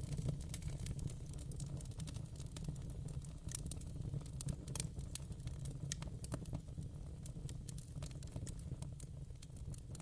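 Wood fire crackling, with a low steady rumble and irregular sharp pops and snaps scattered throughout.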